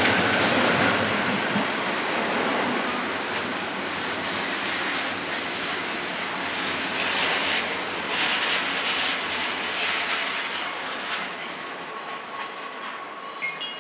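Electric train running past at the platform, its wheels clattering over the rail joints with some wheel squeal, slowly easing off.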